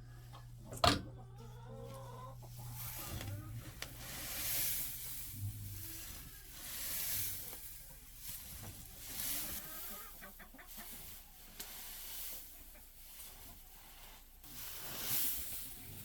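Chickens clucking, with a sharp knock about a second in and repeated swells of rustling noise.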